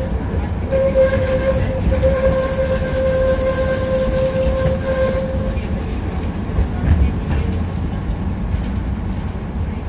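Tram running along the rails, heard from inside the car: a steady rumble of wheels on track, with a steady whine over it that stops about six seconds in, and a single knock about seven seconds in.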